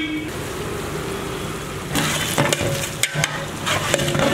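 Chopped vegetables and mint leaves sizzling in hot oil in a large steel pot, with a ladle scraping and knocking against the pot from about two seconds in as they are stirred.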